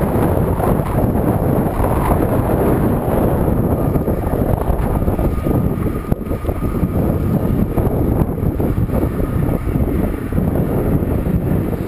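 Steady wind noise rumbling on the microphone of a camera riding along on a moving bicycle.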